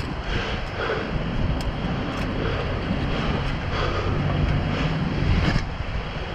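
Wind buffeting the microphone, a heavy, uneven low rumble with a few faint soft knocks mixed in.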